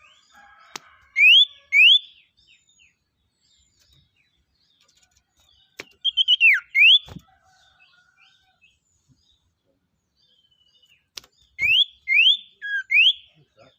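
A sirtu songbird singing short, clear whistled notes that sweep sharply upward, in three bouts: two notes early on, a quick run with one falling note about six seconds in, and four notes near the end. A few sharp clicks come between the bouts.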